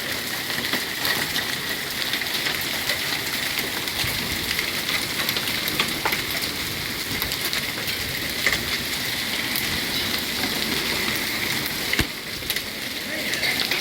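Hail of pea to quarter size pelting down in a dense, steady patter, full of sharp clicks from individual stones striking, with a few louder cracks now and then.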